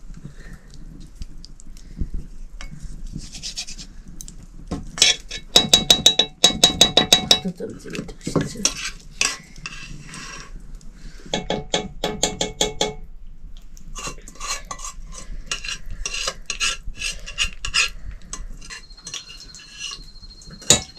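Metal spoon clinking and scraping against a metal cooking pot or bowl in quick runs of strokes, in several bursts with pauses between.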